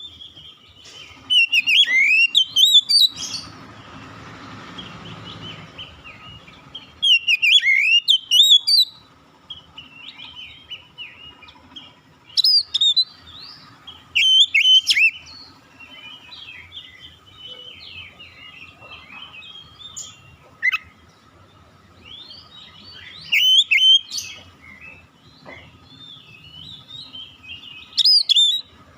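Oriental magpie-robin (kacer) singing: loud bursts of varied, fast-changing whistled phrases every few seconds, with quieter twittering between them.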